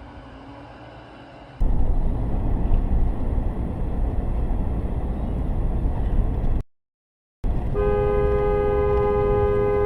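Heavy road and vehicle rumble, broken off by a short cut; then a car horn sounds a long, steady two-note blast, beginning about two seconds before the end.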